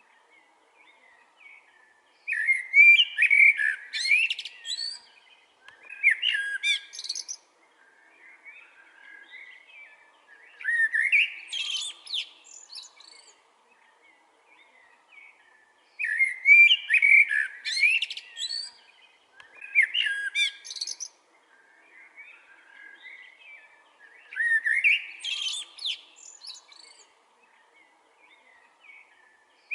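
A blackbird singing: about six loud, varied warbling phrases a few seconds apart, each rising into higher twittering notes, with softer chirps in the gaps.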